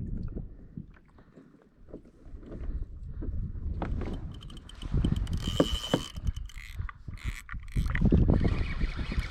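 Water sloshing against a kayak hull with wind buffeting the microphone, in uneven surges, with a few sharp knocks. A faint high steady tone comes and goes in the second half.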